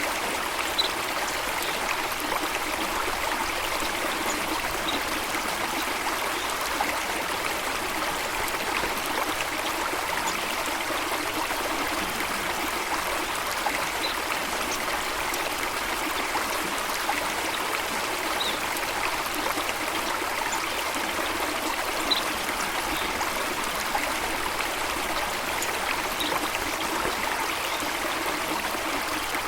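Running water of a stream or small waterfall, a steady rush, with a few faint, brief high sounds now and then.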